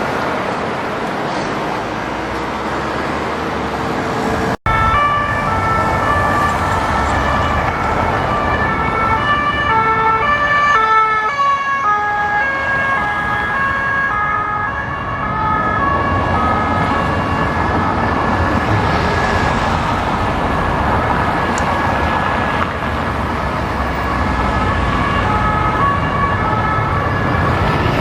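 Several French two-tone police sirens on unmarked police cars, each alternating between two notes and overlapping one another, over city traffic noise. The sirens start a few seconds in.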